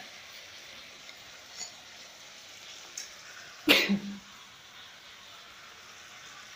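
Faint steady sizzle of sour mango paste frying in hot oil, with one short loud sound about three and a half seconds in.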